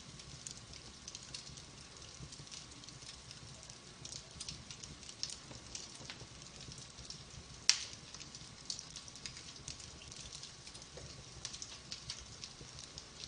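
Logs burning in a wood fire, crackling with many small irregular snaps and one much louder pop a little past halfway.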